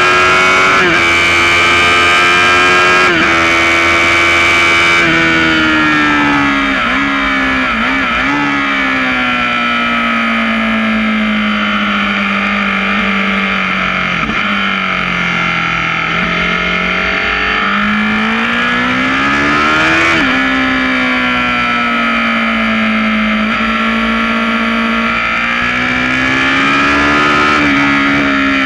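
Sport motorcycle engine at speed on a race track, heard from a camera on its fairing. The revs hold high, then fall gradually as the bike slows for a corner, with a couple of quick blips, then climb under acceleration before dropping sharply at an upshift about twenty seconds in, and rise again near the end.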